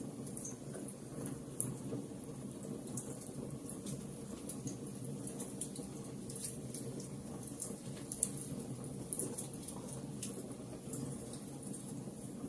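Wood fire burning in a fireplace: a steady low rush of flames with frequent irregular crackles and snaps.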